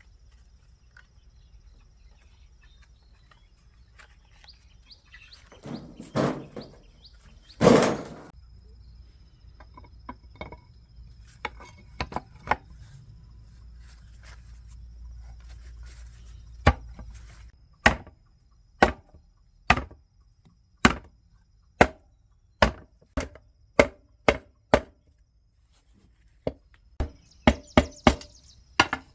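Hammer blows, sharp and separate, about one a second for several seconds, then a quicker run of strikes near the end. Two longer noisy scrapes or rattles come earlier, about six and eight seconds in.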